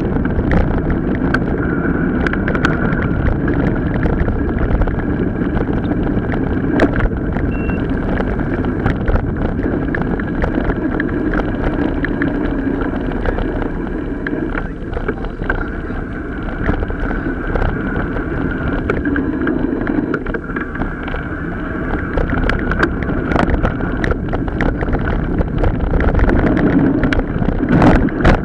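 Mountain bike riding over rough ground: a steady rolling rumble with wind noise and frequent sharp rattles and knocks from the bike.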